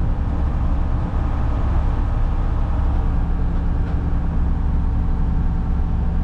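Front-load garbage truck's diesel engine running steadily.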